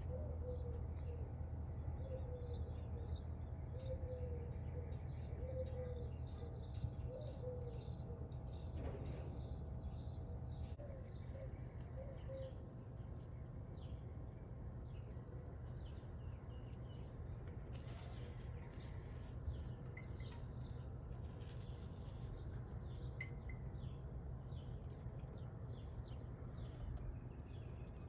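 Garden birds chirping over and over in short high notes, with low repeated cooing calls about once a second through the first eight seconds or so. A few seconds of high hiss come about two-thirds of the way through, over a steady low background rumble.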